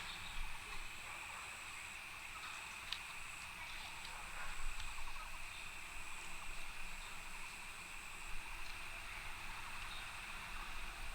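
Steady outdoor ambience: a continuous high-pitched chirring, the highest part cutting in and out every second or two, over a low rumble, with a few faint clicks.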